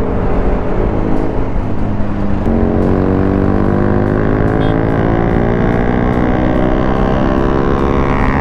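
BMW G 310 RR's single-cylinder engine pulling under way, its note shifting about two and a half seconds in and then climbing slowly as the bike gathers speed.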